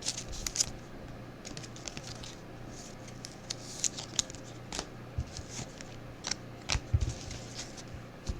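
Trading cards being handled and flipped through by hand: scattered light clicks and rustles as the cards slide and snap against each other, over a steady low hum.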